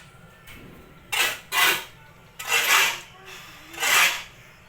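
Sawdust mixture being scraped and turned by hand: a series of short scraping strokes, about one a second.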